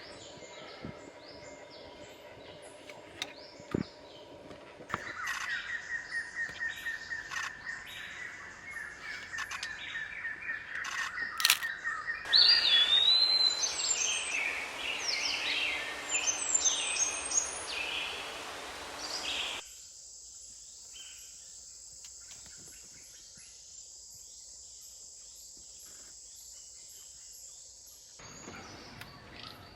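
Forest birds calling and chirping in a sequence of changing calls: a run of evenly repeated notes, then a louder, dense stretch of many varied calls over a hiss, then a quieter stretch with a steady high whine.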